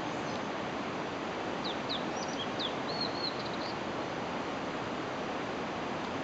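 A steady hiss of outdoor background noise. A small bird calls over it from about one and a half to nearly four seconds in: a quick run of short, high downward chirps, then a brief warble.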